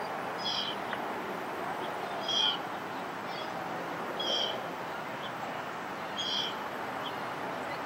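A bird calling over and over: one short, high call about every two seconds, over a steady background hiss.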